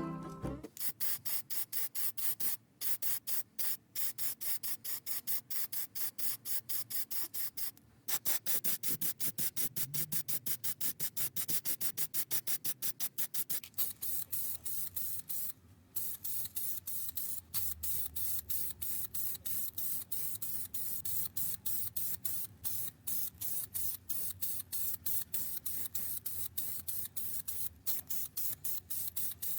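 Paint being sprayed onto a small model car body in short hissing bursts, about three to four a second, with a few brief pauses.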